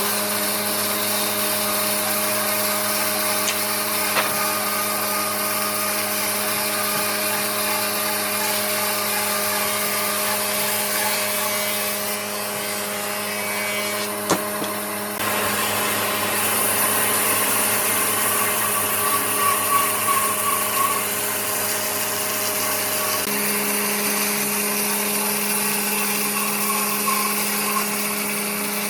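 Electric power tool motor running steadily with a constant hum and whine. The tone changes abruptly about 12, 15 and 23 seconds in.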